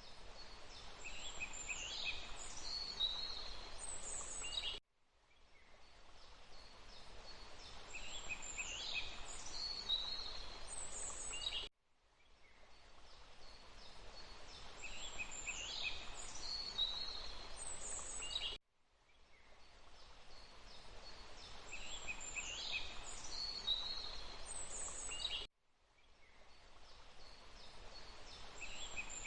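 Birdsong of a few short, high chirps and trills over a steady background hiss, in a looped recording: the same calls come back about every seven seconds, each repeat cutting off abruptly and fading back in.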